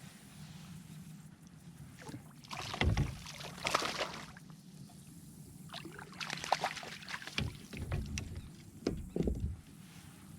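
Irregular splashing and knocks on a kayak hull as a small sea trout is landed and handled, coming in three clusters: about 3 seconds in, around 6–7 seconds, and again near 9 seconds.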